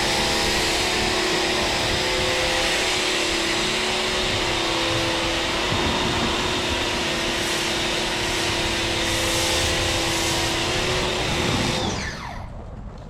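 Electric pressure washer running steadily with a hiss of spray and a motor hum, then shutting off about twelve seconds in, its motor winding down with falling pitch.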